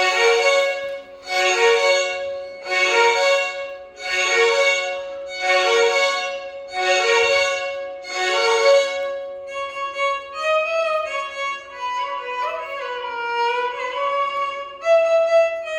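Violin ensemble playing Carnatic music over a steady held drone note. It plays about six loud accented strokes, roughly one every one and a half seconds, then from about ten seconds in a flowing melody with sliding pitch ornaments.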